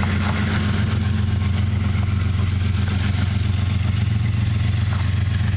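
Diesel freight train passing close by, its locomotive engine giving a steady low drone over a continuous rumble.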